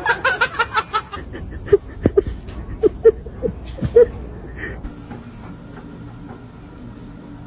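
A person laughing in quick rapid bursts for about the first second, followed by a few scattered short sounds and then a quieter steady hum.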